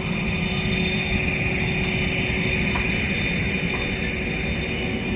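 Steady aircraft turbine noise, a continuous whine over a low rumble that holds level throughout.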